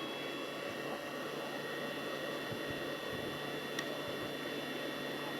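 A steady engine drone: a hiss with several held whining tones that rise slightly at first and then stay level, of the kind an aircraft overhead makes. There is one faint click near the middle.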